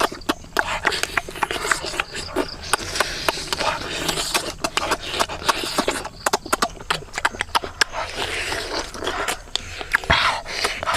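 Dense, irregular clicks, knocks and scraping sounds, with a louder knock about ten seconds in.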